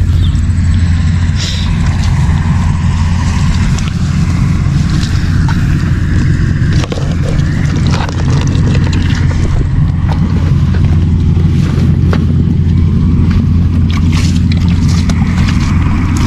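An engine running steadily, a constant low drone with some light splashing and scraping on top.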